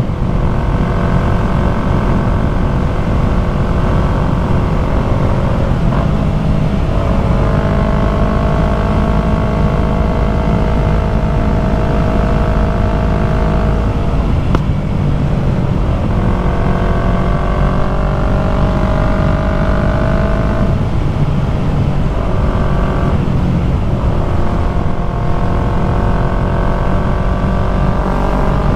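Yamaha MT-03 parallel-twin engine running through an aftermarket full-system exhaust while riding at road speed. The engine note breaks off and picks back up several times, as with gear changes.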